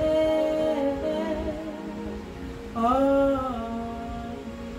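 A voice singing long, held notes that slide up into pitch, over sustained background music; a new phrase begins about three seconds in.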